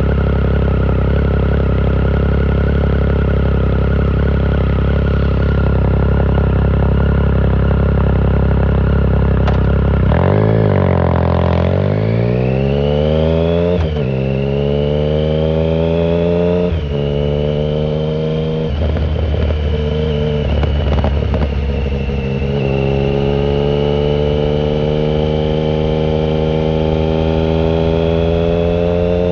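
2009 Triumph Speed Triple 1050's inline three-cylinder engine through a Competition Werkes shorty exhaust with no silencer, heard from the rider's pocket on the move. It holds a steady note for about ten seconds, then revs up hard through two upshifts, settles, and climbs slowly again near the end.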